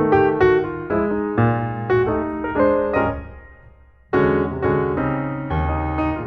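Background piano music: a melody of struck notes that fades away about three and a half seconds in, then starts again just after four seconds.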